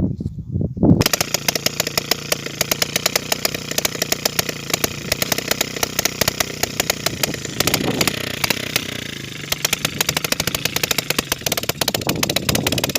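Motorcycle engine on a homemade cultivator running, with rapid, evenly spaced firing pulses that begin about a second in.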